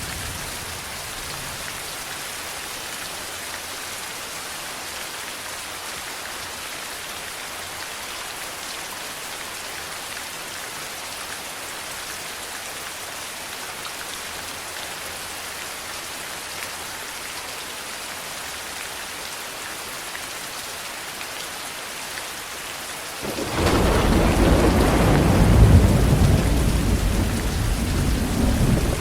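Steady heavy rain falling, then thunder about three-quarters of the way through: a sudden loud low rumble that carries on to the end.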